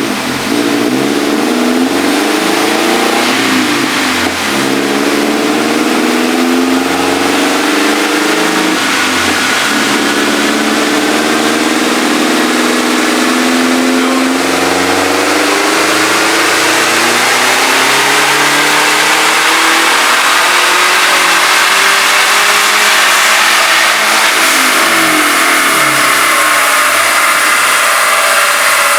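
Turbocharged Subaru Crosstrek's flat-four boxer engine running hard under load in a long pull. Its pitch wavers, then climbs steadily for much of the run and drops away near the end, with a hiss that grows stronger as the revs rise.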